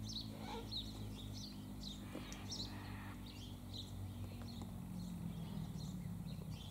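Birds chirping with many short, high notes scattered throughout, over a steady low hum.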